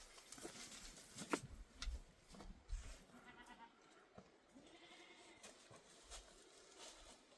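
Faint, distant livestock bleating, a wavering call in the middle of an otherwise quiet stretch, with a few light clicks before it.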